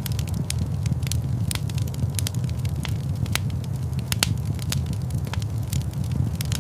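Fireplace fire burning with a steady low rumble and irregular sharp crackles and pops of the burning wood, several a second.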